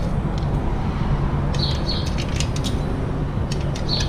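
Self-serve car wash bay with its high-pressure pump running, a steady low hum. A few short high chirps and light clicks come over it.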